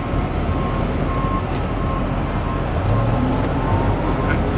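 John Deere skid steer's diesel engine running steadily while the machine is driven, rising a little about three seconds in. A repeated high beep sounds in the background.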